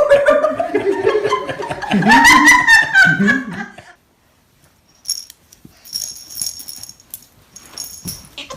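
A baby laughing loudly for about four seconds. After a brief silence comes a run of short, high-pitched squeaks.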